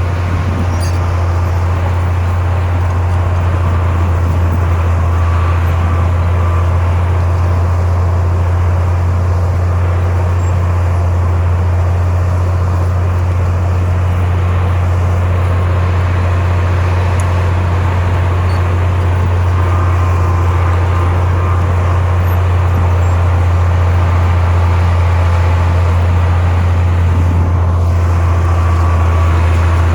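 Heavy diesel engine of a bulldozer running steadily, a loud, deep, unchanging drone.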